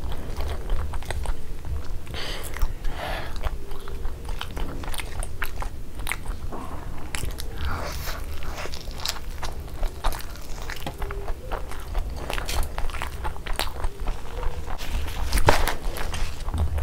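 Close-miked chewing and biting of sunny-side-up fried eggs with crisp browned edges: wet mouth sounds and many small crunchy clicks, with one louder click near the end.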